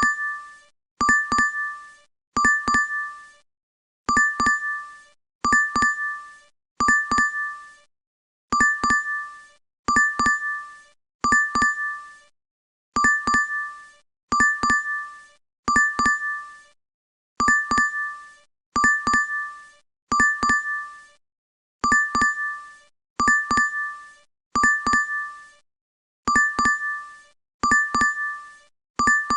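DoorDash app notification chime repeating in a loop: each chime is a quick pair of bright dings, sounding about every second and a half, with a slightly longer pause after every third chime.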